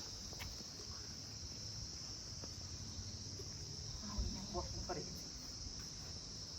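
Steady high-pitched insect chorus, with faint distant voices about four seconds in.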